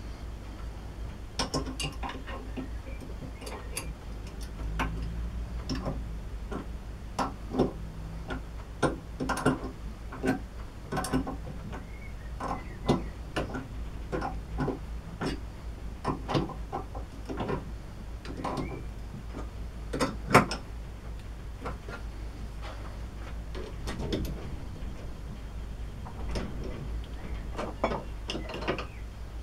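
Irregular light metallic clicks and knocks from lathe parts being fitted and worked by hand, roughly one or two a second, with one sharper knock about twenty seconds in, over a low steady hum.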